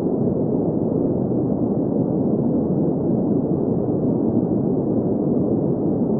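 Steady green noise: an even, unchanging hiss centred in the low-mid range, with almost nothing above about 2 kHz.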